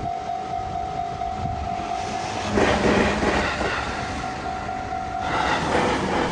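A train at a railway level crossing, with the crossing's warning bell sounding as a steady tone. Two louder rushes of train noise come about two and a half seconds in and again about five seconds in.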